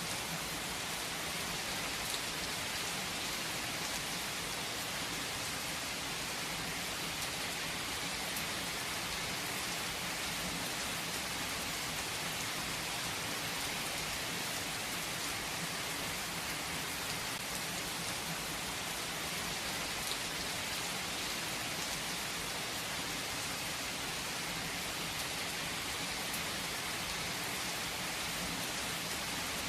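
Steady rainfall, an even hiss with scattered drops pattering on a surface.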